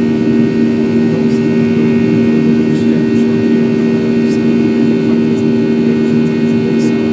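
Jet airliner's engines heard inside the cabin as a steady, loud drone with a low hum, during the climb after take-off.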